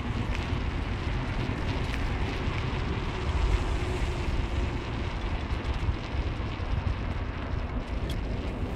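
Steady low rumble of a car being driven, road and engine noise with some wind.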